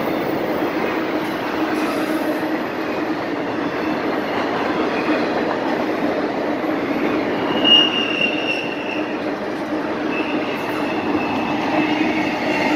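Freight train rolling past, its steel wheels rumbling steadily over the rails. A high wheel squeal rises about seven or eight seconds in and again near the end.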